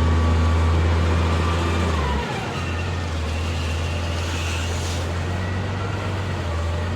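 Heavy diesel engine running steadily, its revs and pitch dropping a little about two seconds in, then holding steady at the lower speed.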